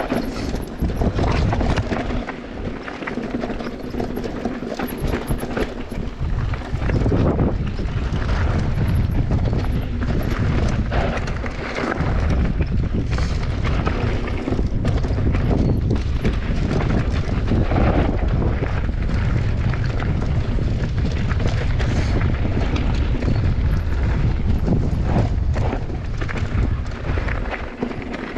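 Mountain bike descending a bike-park trail: heavy wind buffeting on the microphone over a continuous rush of tyres on the dirt, with frequent short knocks and rattles from the bike jolting over bumps.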